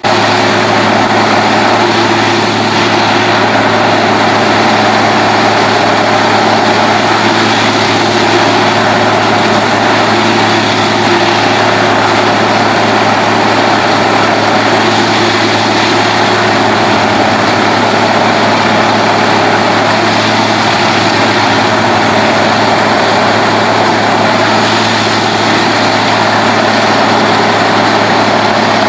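A heavy engine running steadily at a constant pitch, loud and unchanging throughout.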